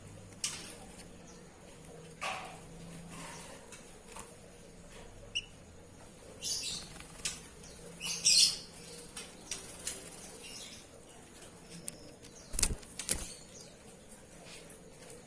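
Oriental magpie-robin fluttering its wings in irregular short bursts as it bathes, the biggest flurry about eight seconds in. A dull knock near the end.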